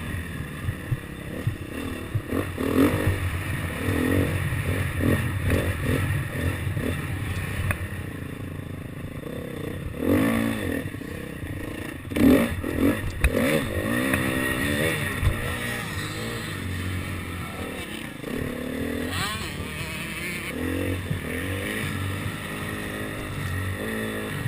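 KTM motocross bike engine revving up and down over and over as it is ridden round a dirt track, with a few sharp knocks, the loudest about twelve seconds in.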